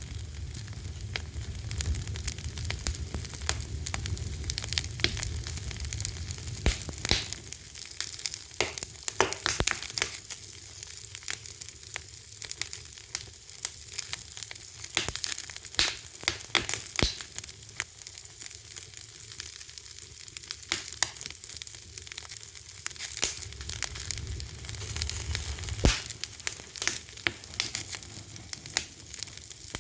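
Wood fire burning with irregular crackles and sharp pops over a steady hiss, and a low rumble that fades in the middle and returns near the end.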